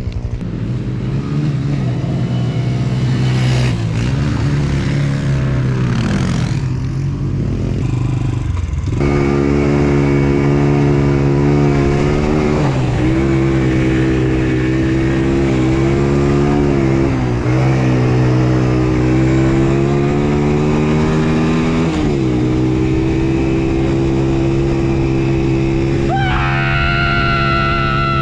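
Small off-road vehicle engine running on a dirt track, its pitch holding steady, then dropping and rising again as the throttle changes, louder from about nine seconds in. Near the end a second, higher-pitched engine whine joins briefly.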